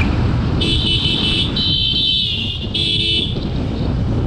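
A vehicle horn honking three times, the second honk sagging in pitch as it ends, over the steady rumble of a riding motorcycle's engine and wind.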